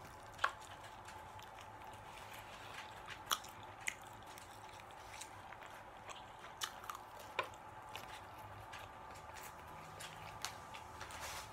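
A person chewing a mouthful of chicken and rice, quietly, with a handful of scattered sharp clicks and smacks.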